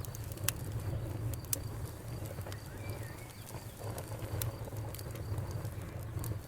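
Wood fire crackling: irregular sharp pops and snaps, a few to several a second, over a steady low rumble of burning.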